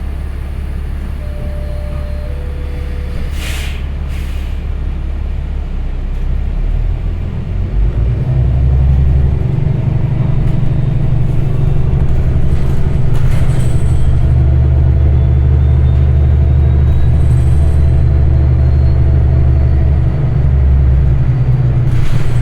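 City bus engine rumbling from inside the bus, growing louder about seven seconds in as the bus speeds up, with a steady whine over it from then on. Short hisses come a few seconds in and again near the middle.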